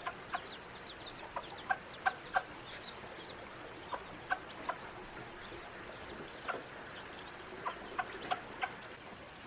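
Chickens clucking: short, sharp calls, one at a time or in quick pairs, scattered irregularly about a dozen times.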